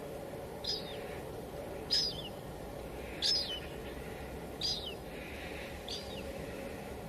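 Steady hiss of light drizzle, with a bird calling over it: five short, high calls, each sliding down at the end, about one every second and a bit.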